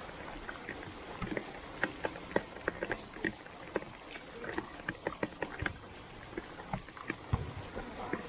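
Rain falling on an outdoor pitch: a steady hiss dotted with many small, sharp, irregular taps.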